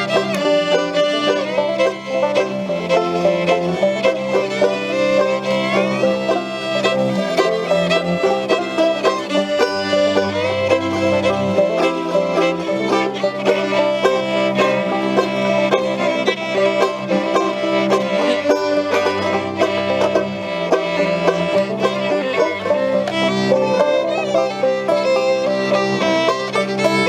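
Acoustic string band playing a lively fiddle tune, with fiddle and banjo over a bass line that steps from note to note.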